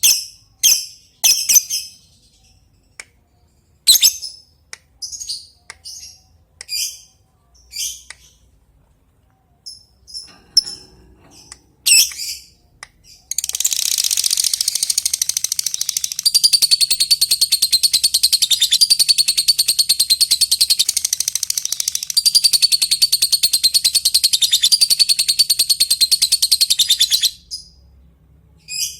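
Lovebird giving separate sharp high chirps, the 'ngetik' call to a rival, then about halfway through breaking into a long continuous rapid chatter, the 'ngekek panjang', which runs for about fourteen seconds and stops abruptly.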